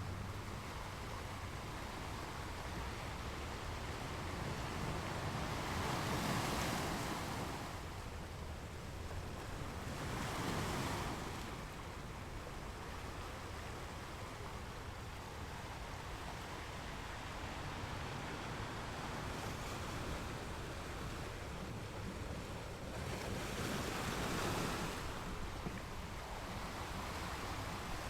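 Ocean waves breaking on a beach, a steady wash of surf that swells up three times as waves break: about six seconds in, again near eleven seconds and again near twenty-four seconds.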